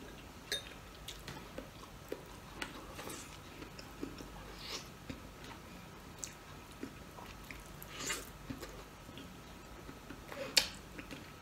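A man eating with his hands, chewing and sucking at cooked moringa (malunggay) pods held to his mouth: soft wet mouth noises with scattered small clicks, a louder one about eight seconds in and another near the end.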